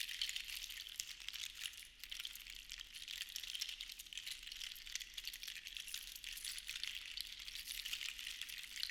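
Seashells rattling together in a shaker, a dense stream of tiny clicks that swells and eases, with a brief lull about two seconds in.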